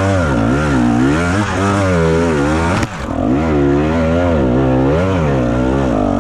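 Enduro motorcycle engine under way, its pitch rising and falling about once a second as the throttle is worked. About three seconds in there is a sharp click and a brief drop in level before it picks up again.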